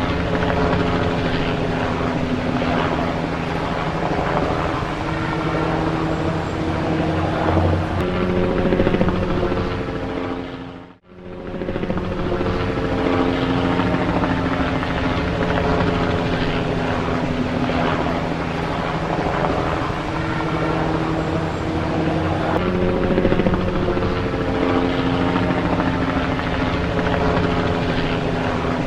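Helicopter running, a steady mix of turbine tones and rotor noise. The sound dips out sharply about eleven seconds in and comes straight back.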